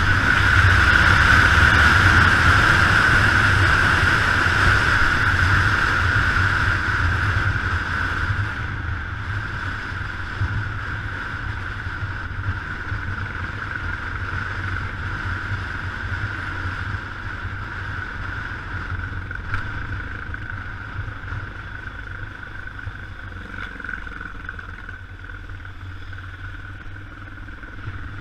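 Yamaha XT 600 single-cylinder four-stroke engine running under a steady hiss of wind and wet-road noise. It is loud at first and grows gradually quieter, and the high hiss fades after about eight seconds.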